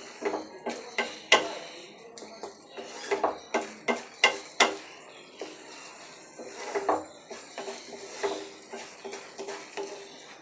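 A spatula stirring and scraping a thick onion-ginger-garlic paste frying in oil in a kadai, with irregular clinks and knocks against the pan, two of them sharper than the rest.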